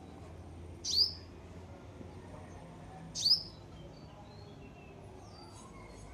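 A small garden bird gives two loud, sharp chirps about two seconds apart, each a quick downward sweep, with fainter chirps near the end.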